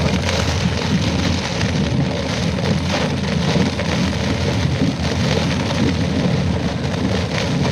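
Steady noise of heavy typhoon rain and wind, with a low rumble underneath.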